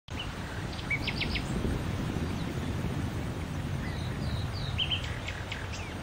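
Birds chirping: a quick run of short high notes about a second in, and more scattered chirps in the last two seconds, over a steady low background rumble.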